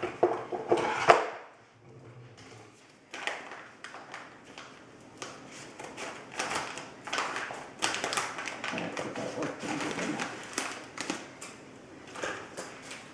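Plastic bag of seed-starting soil mix being opened and handled, with a sharp snap about a second in, then an irregular run of crinkling and crackling.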